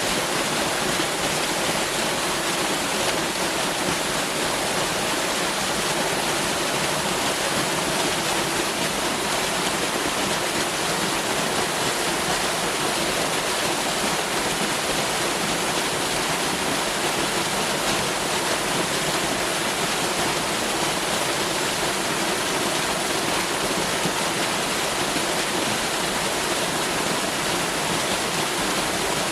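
Waterfall: a steady, unbroken rush of falling water, its hiss spread evenly from low to very high pitches.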